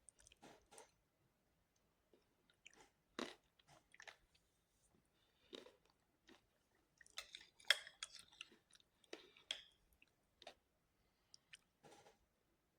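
A person chewing food close to the microphone: soft, intermittent bites and mouth sounds, with a cluster of louder, crackly bites about seven to ten seconds in.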